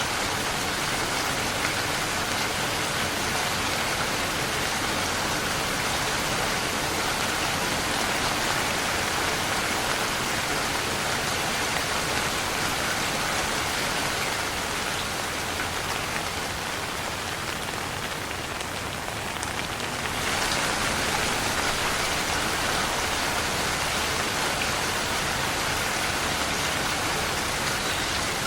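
Steady rain falling, a dense, even hiss of many drops with no single sound standing out. It softens a little in the second half, then comes back full all at once about twenty seconds in.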